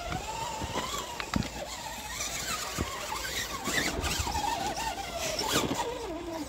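RC rock crawler's brushed motor and gear drive whining, the pitch wandering up and down with throttle and slowly falling near the end, with a few sharp knocks.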